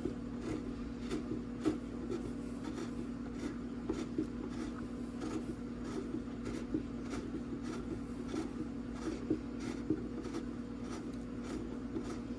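Small clicks repeating about three times a second as a headlight's adjuster screw is turned out with a driver, over a steady low hum.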